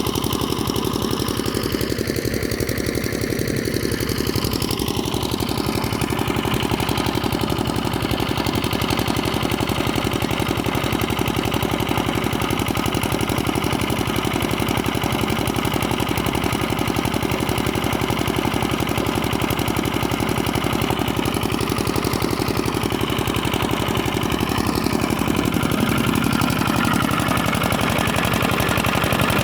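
Old 5 hp water-pump engine running steadily, with an even, rapid firing beat.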